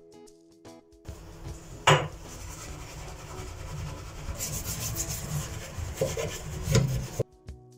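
Rubbing and scraping against a surface, with a sharp knock about two seconds in and another near the end.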